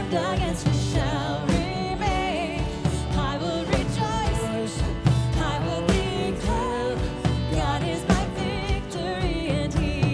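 Live contemporary worship music: a band with drums and sustained chords playing on, and wavering singing voices over it.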